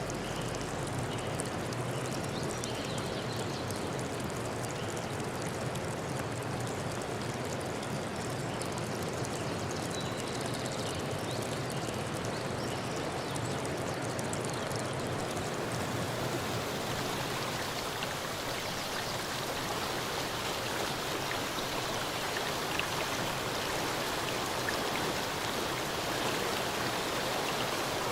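Steady rush of running water, as from a stream. About halfway through it becomes hissier.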